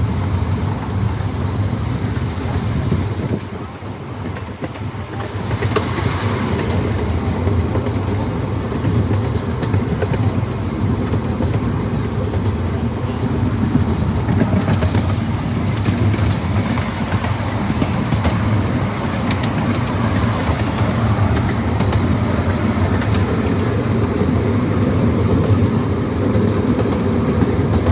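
Miniature amusement-park train running steadily along its track, heard from aboard one of its cars, with a brief quieter stretch about three to five seconds in.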